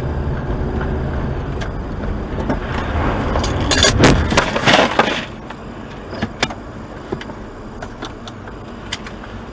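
Car driving with a steady low rumble of engine and road noise; about four seconds in, a burst of loud impacts and clatter lasting about a second and a half, typical of a vehicle collision, then quieter rumble with a few clicks.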